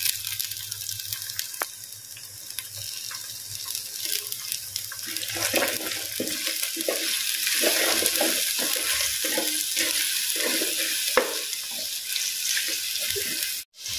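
Small-onion paste and chopped onions sizzling in hot oil in a clay pot, the sizzle growing louder over the first few seconds. From about five seconds in, a spatula stirs and scrapes through the mixture in quick repeated strokes.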